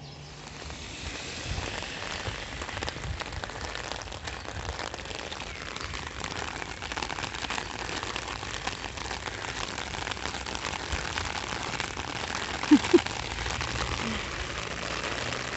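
Rain falling, a steady hiss of many small drops hitting the ground, building up in the first couple of seconds. Two short, louder sounds stand out about thirteen seconds in.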